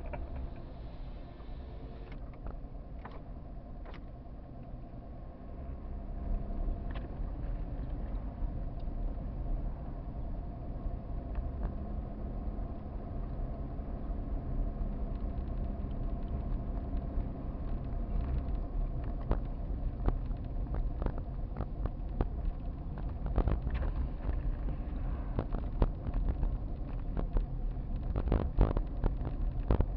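Car driving on a snowy road, heard from inside the cabin: a steady low rumble of engine and tyres, with scattered clicks and knocks. The rumble grows louder about six seconds in.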